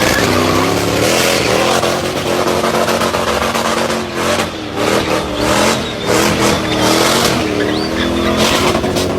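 Car engine revving up and down repeatedly, with tyres squealing and skidding as the car drifts.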